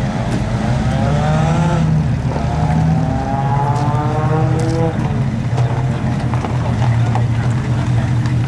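Car engine accelerating, its pitch rising twice as if going up through the gears, over a steady low drone of running engines.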